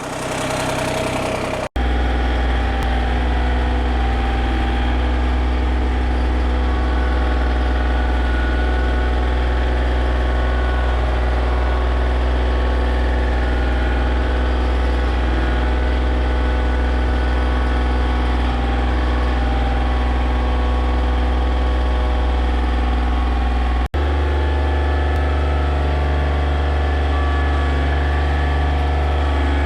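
John Deere 955 compact tractor's three-cylinder diesel engine running steadily at a constant throttle while loader work goes on. The sound cuts out for an instant twice, about two seconds in and near the end.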